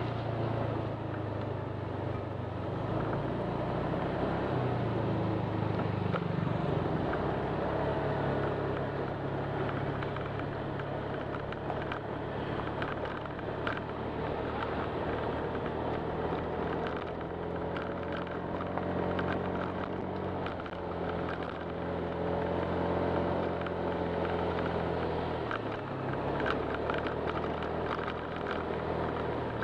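Honda Click 125 scooter's single-cylinder engine running while riding, its pitch shifting up and down a few times with the throttle, over a steady rush of road and wind noise.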